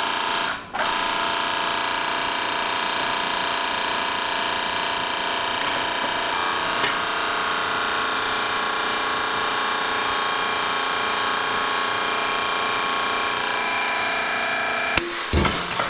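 Handheld electric power tool running steadily at full speed, working on an air conditioner unit being scrapped; it stops for a moment under a second in, then runs on until near the end, when it shuts off and a few knocks follow.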